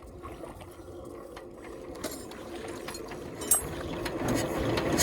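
Power tiller's single-cylinder diesel engine being turned over with a hand crank, the clattering mechanical sound growing steadily louder as the cranking speeds up.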